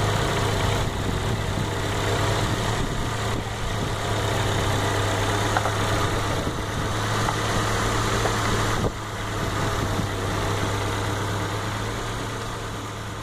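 Ford Zetec-E 1.8 16v DOHC inline-four engine idling steadily, heard from the open engine bay.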